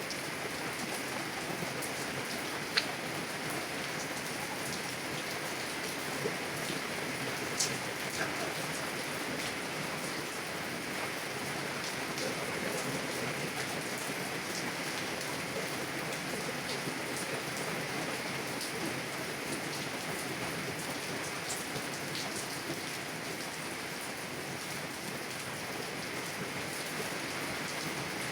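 Heavy rain on a car window heard from inside the car: a steady even hiss with single drops ticking sharply now and then, a few louder ones about 3 and 8 seconds in.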